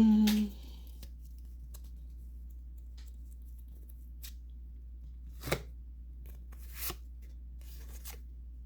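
Pokémon trading cards being handled and flipped through by hand: a few sparse, light snaps and rustles over a steady low hum.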